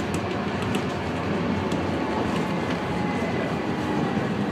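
Light-rail tram running along its track, heard from inside the car: a steady rumble of wheels and running gear with no marked changes.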